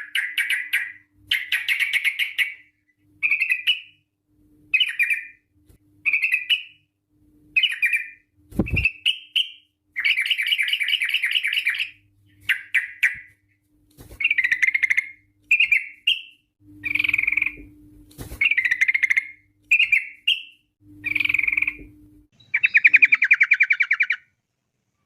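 Yellow-vented bulbul (trucukan) singing: short bubbly chattering phrases repeated about once a second, broken by longer rapid rattling runs about ten seconds in and near the end.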